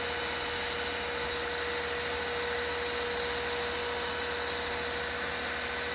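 A steady mechanical hum and hiss with a constant whining tone, unchanging throughout.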